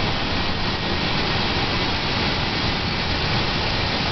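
1997 Ford Ranger engine idling roughly, with a steady hiss over it. The owner suspects a misfire but is unsure whether it is starved of air, fuel or spark.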